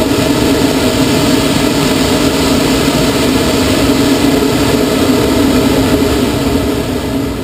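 Air rushing over a glider's canopy and airframe at speed during an aerobatic turn: a loud, steady rush with a low drone in it, easing off near the end as the glider slows.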